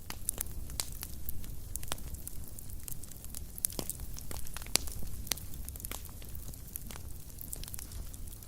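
Fireplace fire crackling: irregular sharp pops and snaps, several a second, over a low steady rumble of the flames, with one louder pop just before midway.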